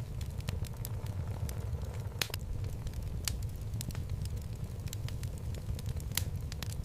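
Wood fire burning in a fireplace: a steady low rush of flame with irregular sharp crackles and pops from the burning logs, the loudest about two seconds in and again near the end.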